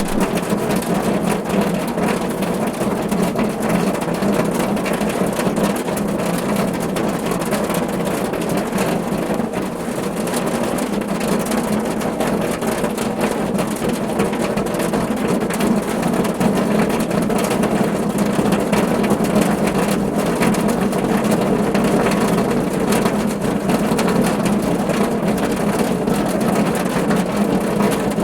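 Steady rain falling on a car roof: a dense, even patter of countless drops with no pauses.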